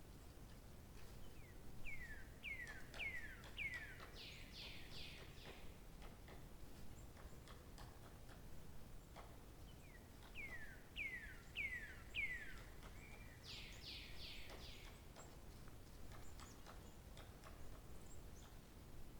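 A songbird singing the same song twice, about nine seconds apart. Each song is four downslurred whistles followed by a fast run of higher notes, over a faint steady background hiss.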